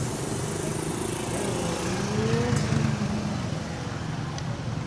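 A car engine running close by, its pitch rising briefly about a second and a half in and falling back, over a steady low rumble of other running vehicles.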